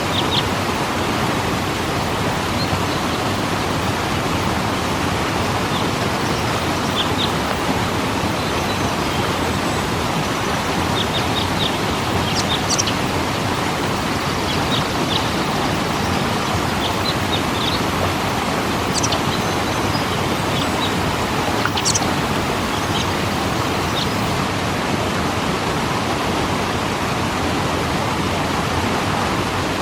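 Waterfall rushing steadily, with scattered short high bird chirps over it.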